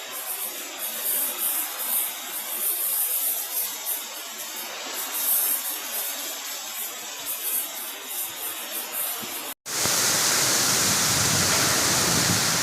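Heavy rain pouring down, a steady hiss that swells and falls; about ten seconds in it cuts out for an instant and comes back louder and fuller.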